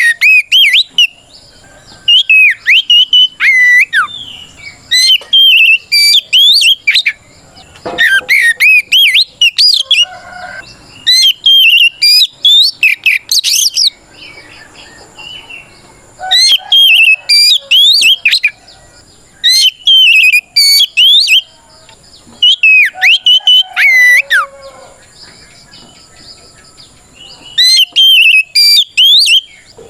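Oriental magpie-robin (kacer) singing loud, full challenge song: rapid phrases of sweet whistles with quick up-and-down slurs, given in bursts of one to three seconds with short pauses between. This is the open, aggressive song a male uses to call out a rival.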